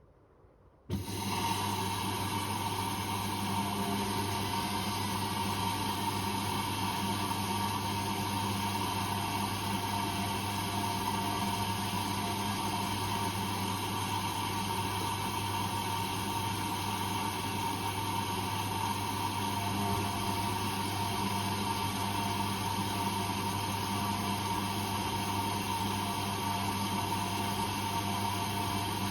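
Whirlpool Indiana 1400 washing machine running with a loud, steady mechanical hum that starts abruptly about a second in.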